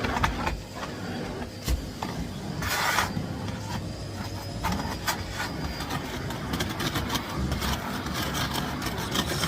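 Miele Blizzard CX1 cylinder vacuum cleaner running steadily with a faint whine, while its floor tool knocks and rubs as it is pushed about. A short, louder hiss of air comes about three seconds in.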